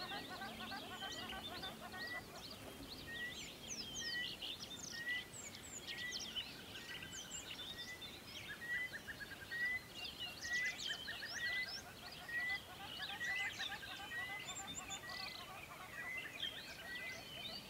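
Several birds chirping and twittering together, with one bird repeating a short note at a steady pace, about every two-thirds of a second.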